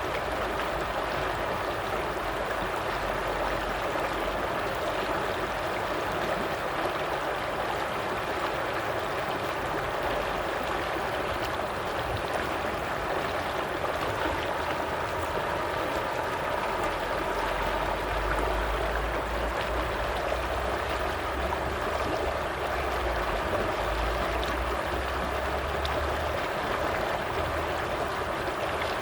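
Stream water flowing steadily, with a low rumble underneath that grows stronger in the second half.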